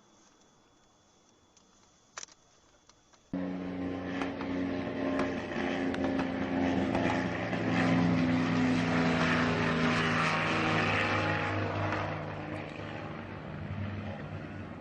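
After a very quiet start with a single click about two seconds in, an aircraft engine starts sounding abruptly, a steady drone with several held tones under a loud rushing noise that swells through the middle and eases off toward the end.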